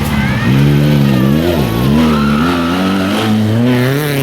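Rally car accelerating hard away from the stage start, the engine revving up and dropping back at each gear change, about three times.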